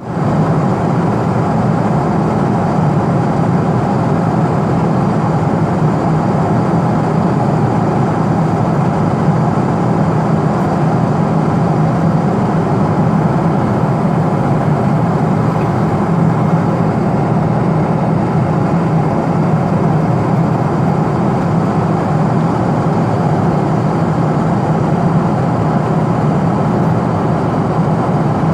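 Steady drone of a Boeing 777 airliner in flight, level and unchanging throughout.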